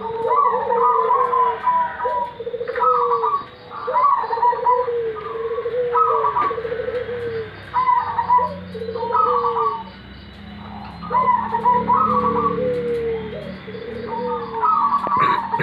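Zebra doves (perkutut) cooing: short trilled, stuttering phrases repeated every second or two, more than one bird calling back and forth.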